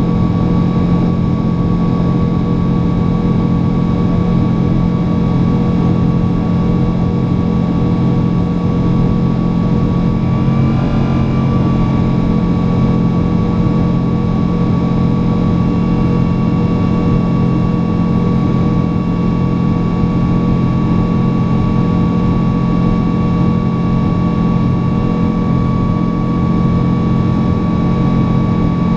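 Boeing 777-200 jet engines running steadily at high power: a continuous loud noise with several steady humming and whining tones, which waver briefly about ten seconds in.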